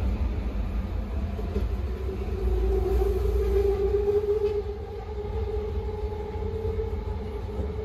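Vancouver SkyTrain train running: a steady low rumble, with a steady whine that comes in about two seconds in and holds.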